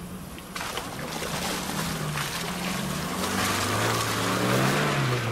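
Off-road 4x4 engine working under load as the vehicle drives through a muddy dip, its note rising and getting louder over the last couple of seconds as it comes close. A broad hiss, tyres and mud or wind, sets in suddenly about half a second in.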